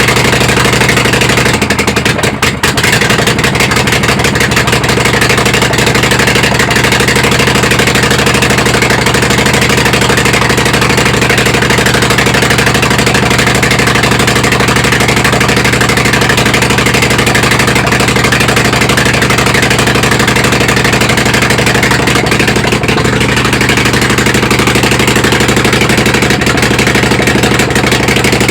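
Kohler Command V-twin small engine running loud and steady, with a brief dip about two seconds in.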